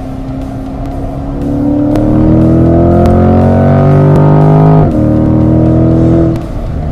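2020 Corvette C8 Stingray's 6.2-litre V8, heard from inside the cabin, accelerating hard in third gear with its pitch rising toward the redline. About five seconds in, a quick upshift to fourth drops the pitch sharply before it climbs again. Near the end the engine note falls away as the driver lifts off.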